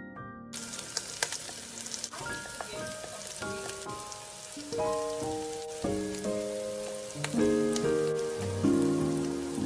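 Oil sizzling and crackling in a frying pan, with many sharp pops, starting about half a second in as onions and tomatoes fry with ground spices. Plucked, harp-like background music plays over it.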